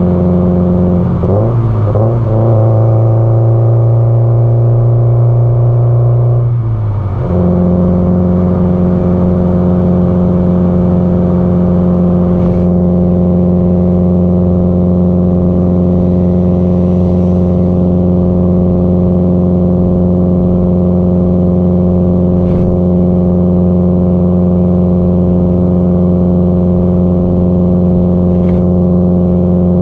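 Subaru Impreza WRX STI (GDB-E) 2.0-litre turbocharged flat-four engine and exhaust droning while cruising. The engine note steps up in pitch about a second in, holds, drops back around seven seconds in, then stays steady.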